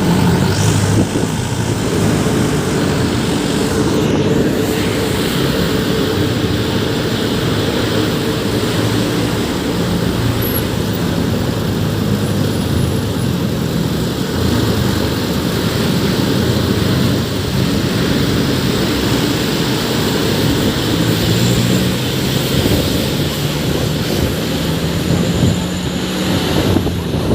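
Engine of a moving vehicle running steadily, with road and wind noise; its pitch shifts slightly a few times.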